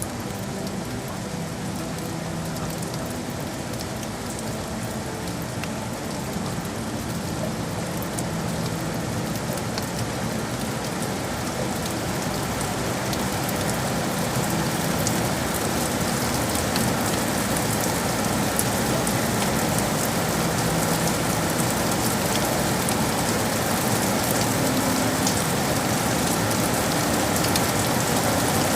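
Steady rain falling on hard surfaces, a dense hiss of drops with many small ticks, slowly growing louder.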